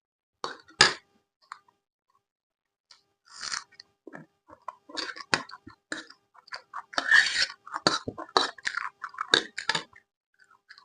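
Close-miked chewing and crunching of food: a sharp loud crunch about a second in, a short pause, then a run of irregular crunchy chews that goes on almost to the end.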